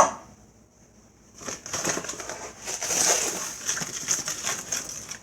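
Granulated sugar being scooped with a measuring cup and poured into a pot: a dense, gritty rustle from about a second and a half in. A sharp click comes at the very start.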